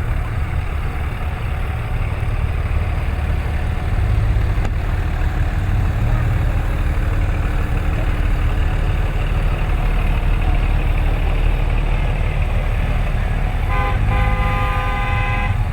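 Ram pickup trucks rumbling past in a slow procession, a steady low engine drone. Near the end a truck horn honks, a short toot followed by a longer blast.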